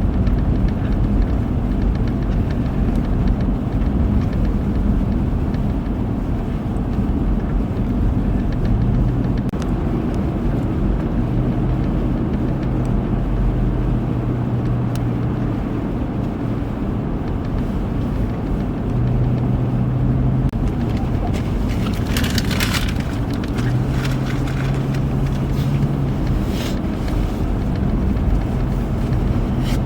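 Car driving, a steady low engine and road rumble with a low hum that comes and goes, and a few short hissing bursts about two-thirds of the way through.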